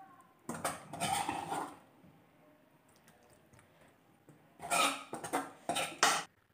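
Spoon scraping cooked ginger chicken out of a pan into a serving dish: one long scrape about half a second in, then a quick run of shorter scrapes near the end.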